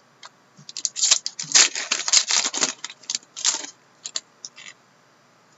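Trading cards and their pack wrapping being handled: a dense run of crisp clicks and crinkles, thickest from about one to three and a half seconds in, with a few single clicks around it.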